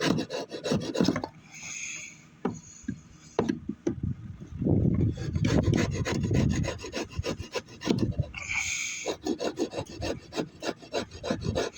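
A rasp scraping an oak hammer handle in runs of quick, repeated strokes with short pauses, shaping the wood.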